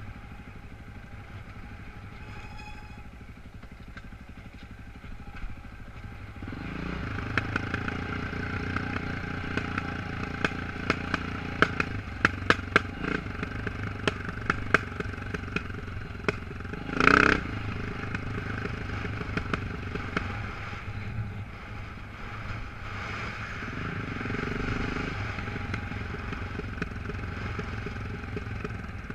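Off-road motorcycle engine running, quieter at first and then under more throttle from about six seconds in. Over rough ground there are many sharp clatters and knocks, and one brief loud burst of noise just after halfway.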